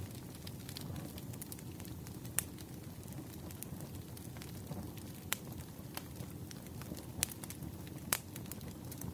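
Crackling wood fire: a steady low rumble of burning with scattered sharp pops, four of them louder.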